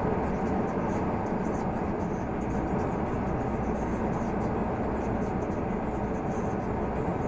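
Renault Magnum 480 truck engine and road noise while driving, a steady, unchanging drone.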